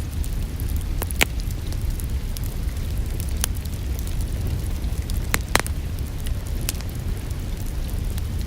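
Wood fire in a fireplace crackling, with scattered sharp pops, the loudest about a second in and again past the middle, over a steady low rumble and the hiss of rain.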